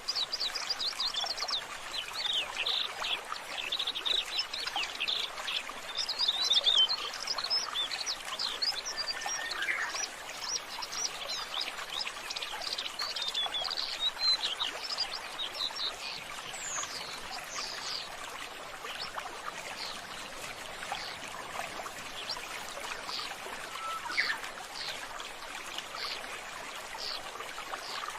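Many small birds chirping in quick, busy bursts over a steady rushing noise like running water. The chirping thins out a little over halfway through.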